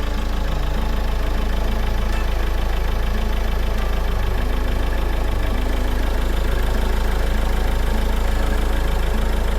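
Mahindra XUV500's turbocharged engine idling steadily, heard from the open engine bay, with air leaking at the EGR valve packings, the leak the owner blames for the engine's whistle.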